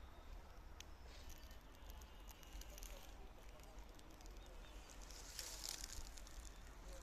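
Faint outdoor ambience: a steady low rumble with light rustling and scattered soft crackles, the rustling swelling briefly about five seconds in.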